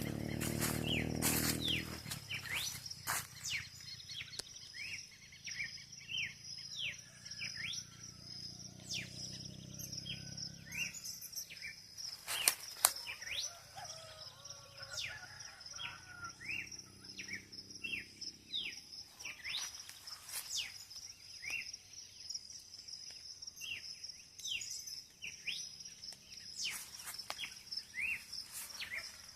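Dawn bird chorus: many birds repeating short, quickly falling chirps over a steady high-pitched whine. A low hum fades out about two seconds in, and two sharp clicks stand out near the middle.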